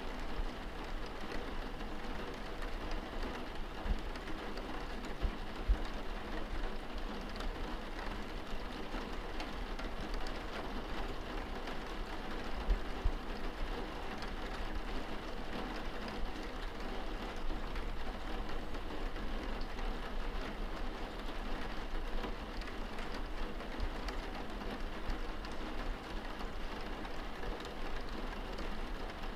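Steady rain heard from indoors, pattering on a window pane, with the odd louder drop or tap.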